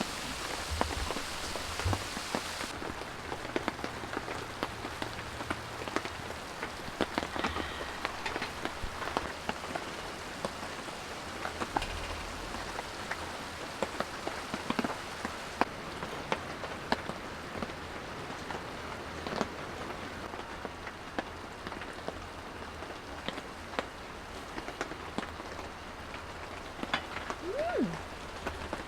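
Steady rain falling on a surface, with many individual drops ticking sharply. A little before the end comes a short sound that slides down in pitch.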